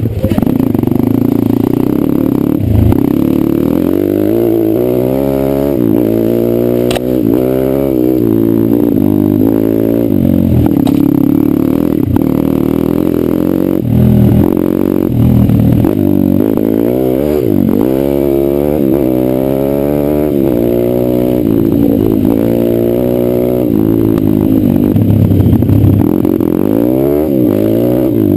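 Pit bike engine revving up and backing off over and over while being ridden off-road, its pitch rising and falling every second or two.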